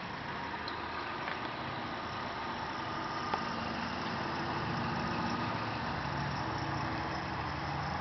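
2003 Toyota Tacoma pickup's engine idling steadily.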